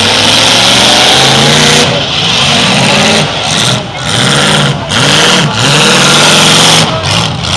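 Demolition derby car engines revving hard, their pitch climbing and dropping over and over with short breaks as the drivers get on and off the throttle.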